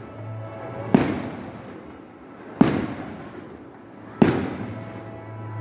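Three loud firework bangs about a second and a half apart, each trailing off in an echo. Under them runs a steady, low held tone, like music.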